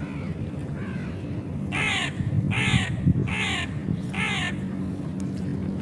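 A seagull calling four times in quick succession, a little under a second apart, each call a short cry that falls in pitch. Two fainter calls come earlier.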